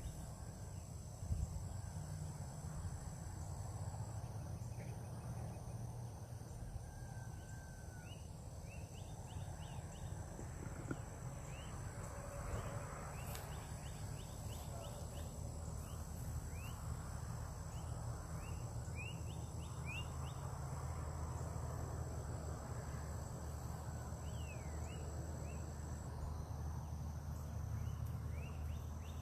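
Faint outdoor ambience: a steady high-pitched drone of insects, scattered quick bird chirps, and a constant low rumble underneath.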